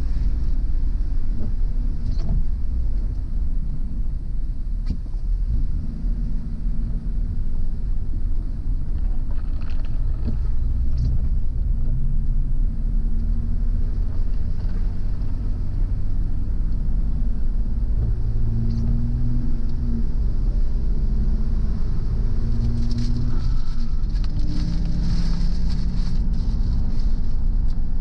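Car driving on a road: a steady low rumble of engine and tyres, with the engine note rising and falling as speed changes. A brief hiss joins it near the end.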